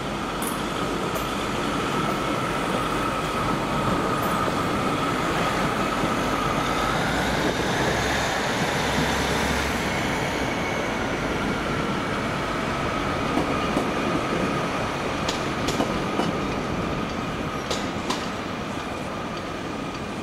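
A train running at a railway station platform: a steady rumble with a high tone that glides up in pitch about seven seconds in, and a few sharp clicks in the second half.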